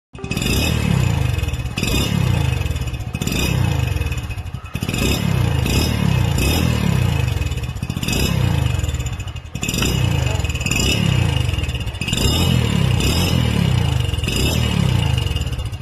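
Hero Splendor Plus motorcycle's single-cylinder engine blipped again and again through an aftermarket GCL silencer: about a dozen short revs, each falling straight back with crackling and popping from the exhaust (the 'firing' sound of the modified silencer).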